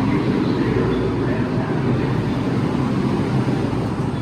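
New York City subway train running, a steady low rumble with noise across the range and no pauses.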